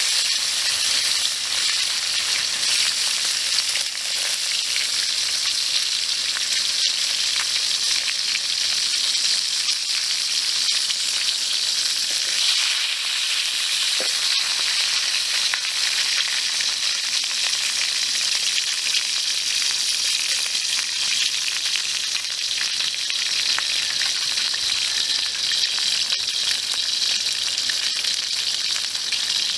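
Fish sizzling steadily as it cooks, a constant hiss with fine crackle.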